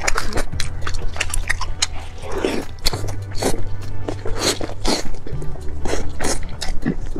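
Close-miked eating of tender roast chicken: wet chewing, lip smacks and mouth clicks. Underneath runs background music with a steady low bass that changes note a couple of times.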